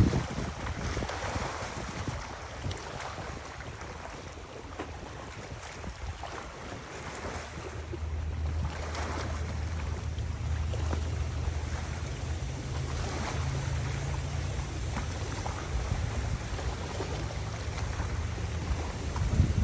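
Wind buffeting the microphone in gusts over the sound of open water, with a steady low hum through the second half.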